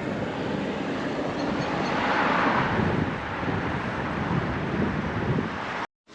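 Steady rushing outdoor noise that swells about two seconds in and eases off, then cuts off suddenly near the end.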